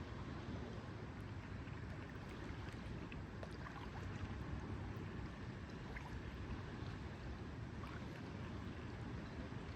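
Lake water lapping, a steady low wash, with faint small ticks scattered through it.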